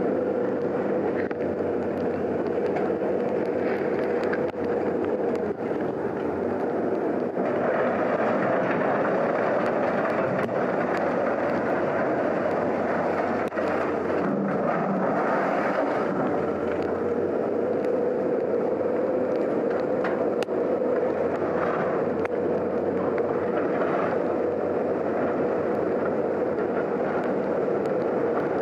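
A vehicle running steadily, a dense rushing noise with a steady hum under it.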